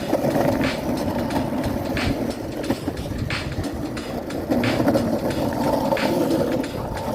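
Longboard wheels rolling over pavement, a steady rough rumble with a sharp clack about every second and a half as the wheels cross joints in the sidewalk.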